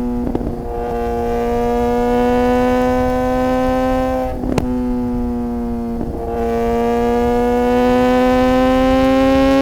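Suzuki GSX-R600's inline-four engine pulling hard, its pitch climbing through each gear, with three quickshifter upshifts. Each one is a sudden drop in pitch with a short sharp crack: about a third of a second in, near the middle, and about six seconds in.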